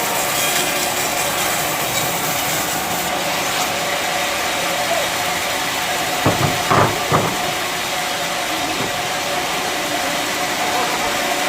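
Bandsaw sawmill running steadily with a constant hissing noise and a faint steady hum, with a few brief louder sounds a little past halfway.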